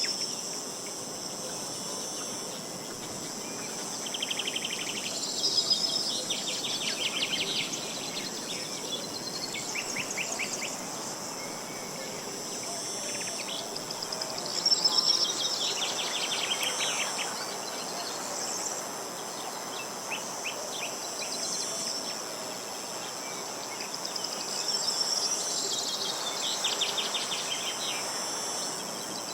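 Steady high-pitched chorus of crickets or similar insects, with songbirds breaking in every few seconds with short, rapid trilled phrases.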